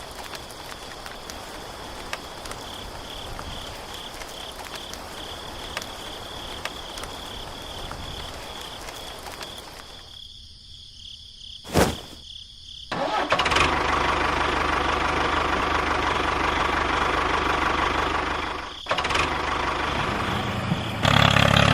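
Outdoor background with a steady, pulsing high chirr, then a click. After that a small motor starts and runs loudly and steadily, cuts out briefly near the end and starts again.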